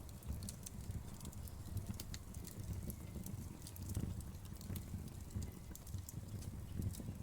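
Wood fire crackling: a low steady rumble of the flames with frequent small sharp pops and crackles at irregular moments.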